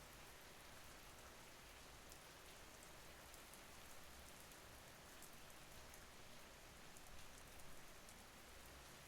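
Faint steady rain: an even hiss with many small drop ticks throughout.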